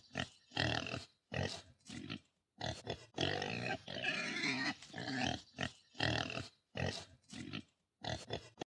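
Pig grunting sound effect: a string of short, low grunts with a longer unbroken run in the middle, starting and stopping abruptly.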